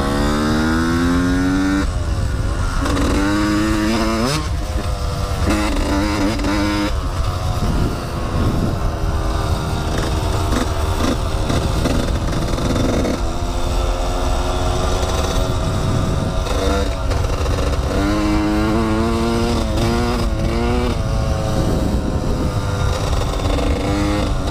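Yamaha YZ125 two-stroke dirt bike engine accelerating through the gears, its pitch climbing and dropping back at each shift, again and again, with stretches of steadier running between pulls.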